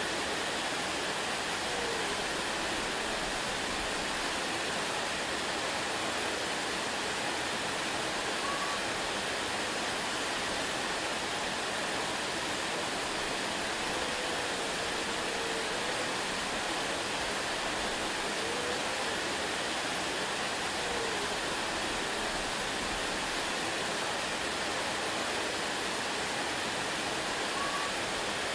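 Waterfall, water falling in a steady, even rush that does not change. A few faint, short whistle-like tones come through now and then.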